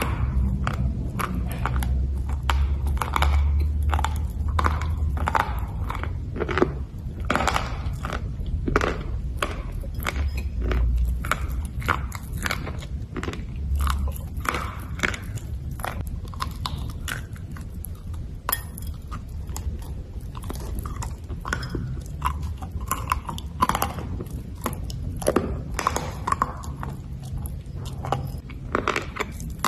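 A person biting and chewing black slate bars: a long run of sharp, dry crunches, one every half second or so, over a low hum.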